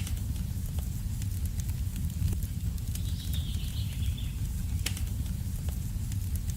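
Wood fire in a fireplace crackling: a steady low rumble of the flames with scattered sharp pops, and a brief faint high whistle about three seconds in.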